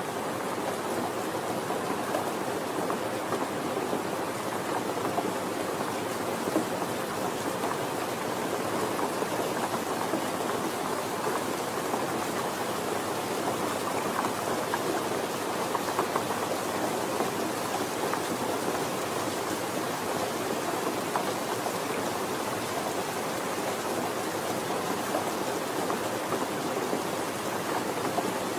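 Steady soft rain falling, an even patter of many drops with faint scattered drip ticks.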